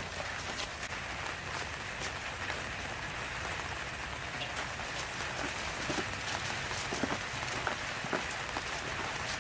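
Hot oil sizzling steadily with scattered sharp pops and crackles, food frying.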